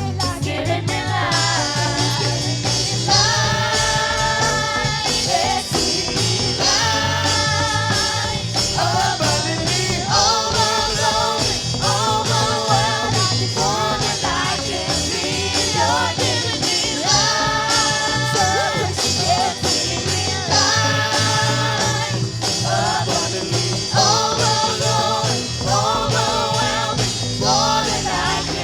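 Gospel worship song: voices singing phrases with long held notes over a full band with a steady beat.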